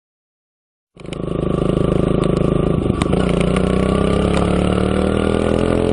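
Silence for about a second, then a motorcycle engine running steadily, its pitch sinking slightly, with a few sharp clicks.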